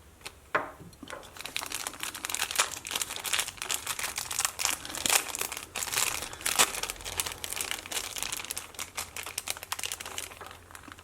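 Small plastic bag crinkling as it is handled and opened, a dense run of irregular crackles. The bag holds the Walkman's replacement drive belts.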